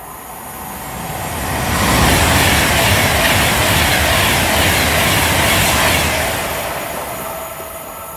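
Class 390 Pendolino electric train passing through at speed: a rush of wheel-on-rail and air noise that builds over the first two seconds, stays loud for about four seconds, then fades away.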